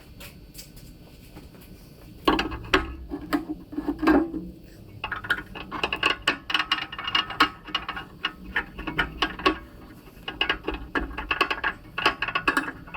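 Hand tools clicking and rattling against metal in quick, irregular runs, starting about two seconds in.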